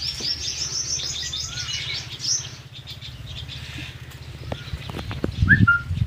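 Small birds chirping in a fast run of high, quick chirps for the first two seconds or so, then thinning to scattered chirps, over a steady low hum. Near the end a louder low thump comes with a short rising call.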